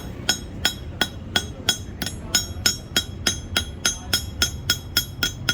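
A hammer tapping metal in a steady, rapid run of about three blows a second, each with a short metallic ring. The taps quicken slightly toward the end.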